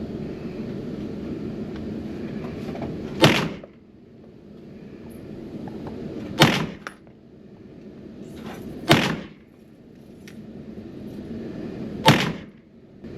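Four single shots from a 9mm Kel-Tec Sub-2000 carbine, fired slowly about three seconds apart, each a sharp report with a brief echo.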